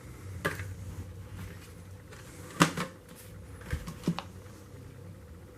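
Plastic clicks and knocks as the dust bin of a Hoover WindTunnel Whole House upright vacuum is unlatched and handled: a handful of sharp clicks, the loudest about two and a half seconds in.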